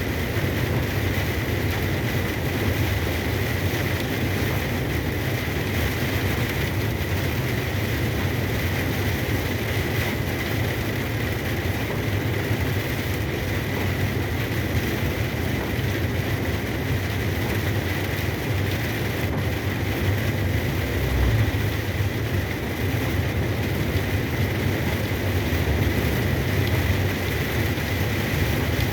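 Moving truck: a steady low drone of engine and road noise, with a thin high tone held throughout and a brief swell about two-thirds of the way in.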